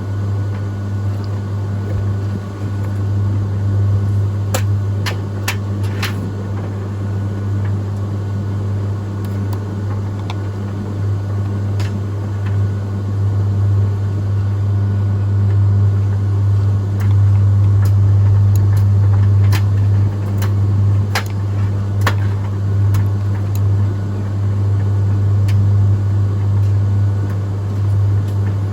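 Beko condenser tumble dryer running: a steady low electrical hum with a few light clicks scattered through it.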